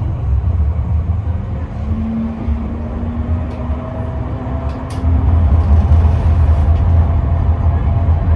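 Tram running between stops, heard from inside the car: a steady low rumble, with a faint whine from about two seconds in, getting louder about five seconds in.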